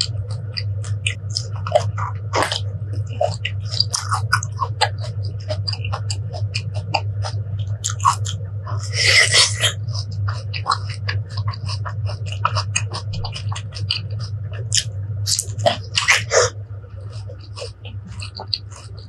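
Close-up biting and chewing of raw fruit: many small clicks of chewing, with a bigger crunching bite about nine seconds in and another around sixteen seconds, over a steady low hum.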